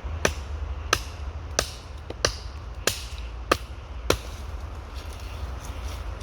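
Small flat hatchet chopping thin branches: seven sharp, evenly spaced blows into the wood, about one and a half per second, stopping about four seconds in.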